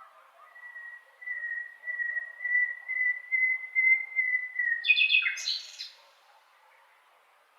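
Songbird singing in a garden: a long run of repeated whistled notes at nearly one pitch, rising slightly and growing louder over about four seconds, then a short burst of richer, higher calls with a falling note about five seconds in.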